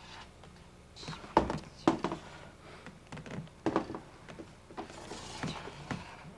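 A few irregular knocks and clicks over a low background, the strongest about a second and a half in and again half a second later.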